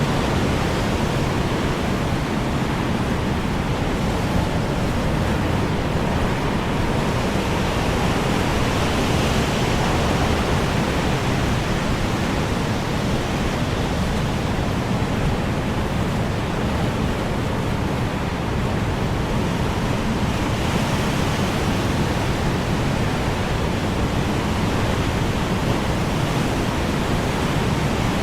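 Strong wind blowing steadily as a dense roar of noise, swelling a little in the upper range now and then.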